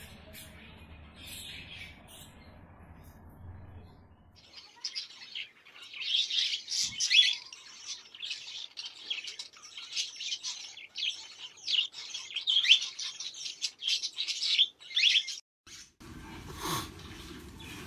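A bird chirping and twittering in a fast, dense run of high chirps. It starts about four seconds in and stops abruptly near the end.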